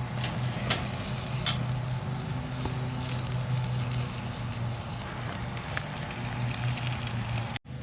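Bacon sizzling over a campfire, a steady hiss with the wood fire crackling in scattered sharp pops and a steady low hum underneath. The sound drops out for a moment near the end.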